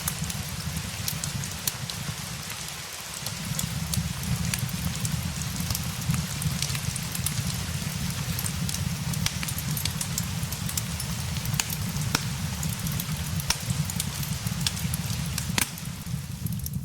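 Steady rain with a fireplace crackling, its sharp pops and snaps scattered irregularly over the hiss of the rain and a low, even rumble.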